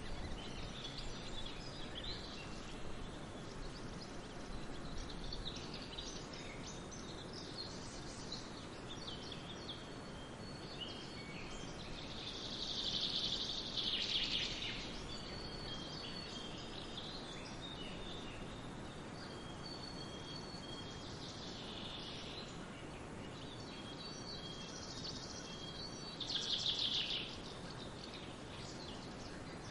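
Songbirds singing and calling in a forest, short high whistles and chirps over a steady rushing background of a distant waterfall and wind. A louder rapid trilling song comes in about halfway through and again near the end.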